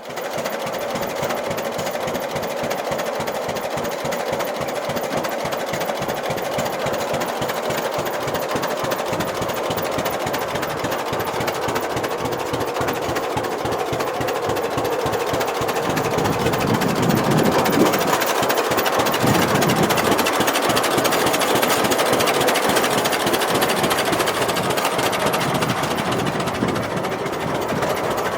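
John Deere B two-cylinder tractor engine running with a rapid, regular knocking beat. It grows a little louder about halfway through.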